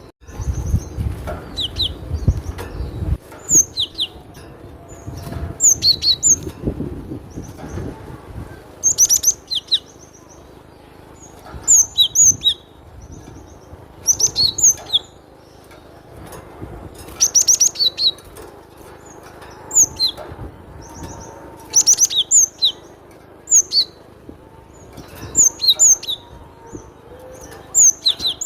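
Cinereous tit (glatik batu) singing: short phrases of sharp, high, quickly repeated notes, a phrase every two seconds or so. A low rumble sounds under the first three seconds.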